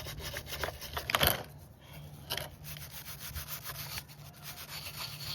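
A small brush scrubbing the diesel-wetted body of a 1978 Homelite XL12 chainsaw in quick, repeated strokes, with one louder scrape about a second in.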